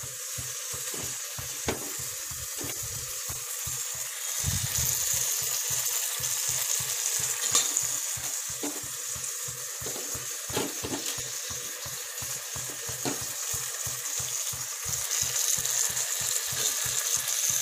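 Onions and tomatoes sizzling in oil in an aluminium pot: a steady frying hiss. A few light clinks of a spoon against a glass bowl of ginger-garlic paste.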